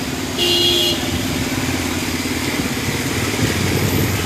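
Motor traffic, a motorcycle engine running steadily, with one short horn beep about half a second in.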